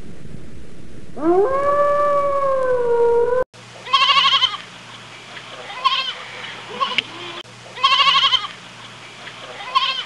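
A grey wolf gives one long howl that rises in pitch and then holds. After a sudden cut, a young goat kid bleats several times, each bleat quavering.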